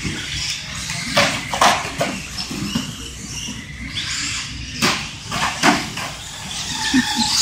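Electric 1/10-scale stadium trucks racing on a dirt track: a steady rough clatter of tyres and chassis, broken by several sharp knocks as trucks land off jumps or hit each other.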